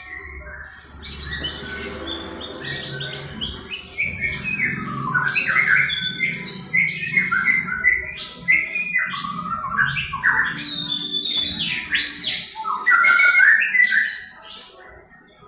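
White-rumped shama (murai batu) singing a long, varied song of quick whistles, glides, squawks and clicks, in the lyrebird-like style its keeper trained it in. The bird is eleven months old.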